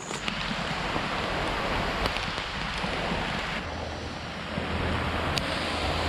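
Heavy rain pouring onto a camping tarp: a steady, dense hiss that turns deeper and heavier about halfway through.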